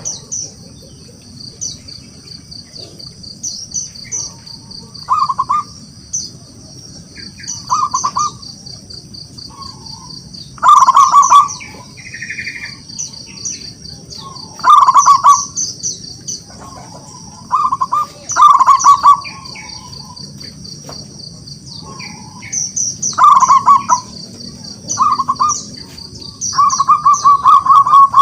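Zebra dove (perkutut) cooing: short rolling phrases of rapid staccato notes every one to three seconds, with a longer unbroken run starting near the end. This is its territorial call, the kind that draws a rival to answer. Steady high, fast chirping goes on behind it.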